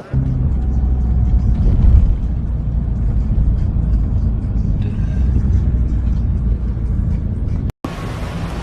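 A car's steady low rumble on the road, with music playing along. The sound cuts out briefly near the end.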